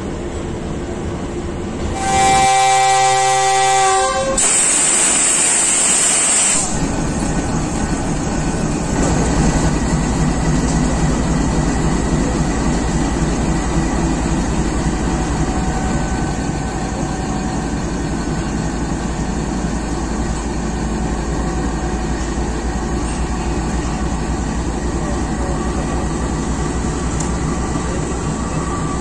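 Departing train's diesel-electric locomotive sounds its horn for about two seconds, followed by a sharp hiss of air lasting about two seconds. After that comes a steady low rumble of the locomotive's diesel engine and the coaches rolling as the train pulls out.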